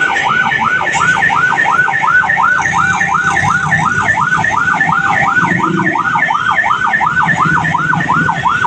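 Electronic railway level-crossing warning alarm at an Indonesian crossing, warbling rapidly up and down about three times a second without a break, with a low rumble underneath.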